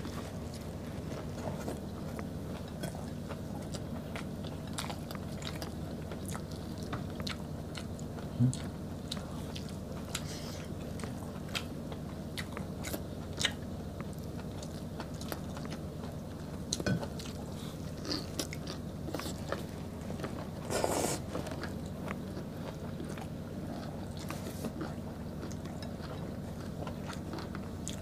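Close-miked mukbang eating: two people chewing and biting beef caldereta and rice eaten by hand, with wet mouth sounds and scattered small clicks and crunches, and one louder brief burst about three quarters of the way through. A steady low hum runs underneath.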